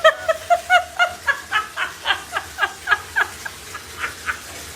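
A cat making a quick string of short, high mews, about four or five a second at first, then fewer and more spaced out, stopping a little before the end.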